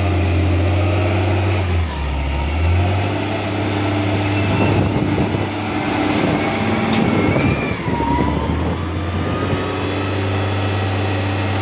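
Heavy diesel engine running steadily at work, its note dropping briefly about two seconds in and then picking back up, with a faint wavering whine above it.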